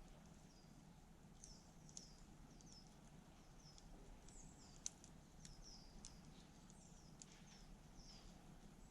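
Faint campfire with a couple of sharp wood crackles, the loudest about five seconds in, over a run of short, high chirps from small birds repeating throughout.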